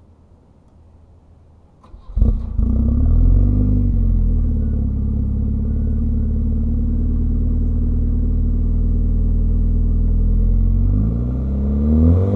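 1981 Volvo 245 Turbo's engine through a 3-inch turbo-back exhaust with a Dynomax muffler, starting about two seconds in and settling into a steady idle. The revs rise near the end.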